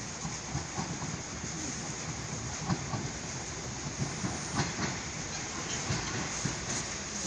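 Steady hiss of rain with irregular drips and taps close by, and an electric train approaching in the distance.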